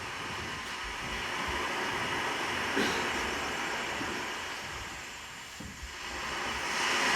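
A steady rushing noise that dips about two-thirds of the way through and swells again near the end, with one brief tick about three seconds in.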